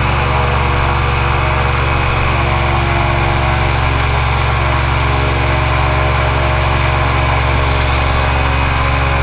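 Airboat engine and propeller running at a steady, loud pitch.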